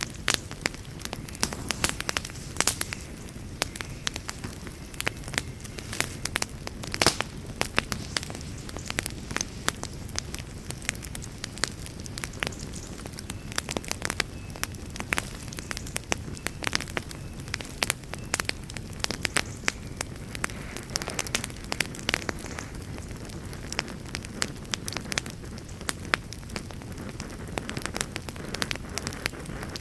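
Wood campfire crackling, with irregular sharp pops over a steady low rush.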